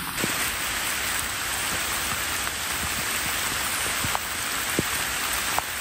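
Rain falling steadily, an even hiss, with a few sharp single taps of drops striking close by.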